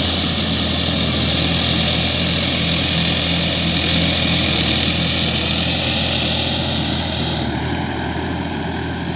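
Sonalika DI-50 RX tractor's diesel engine running steadily, with a high hiss over it that cuts off suddenly about seven and a half seconds in.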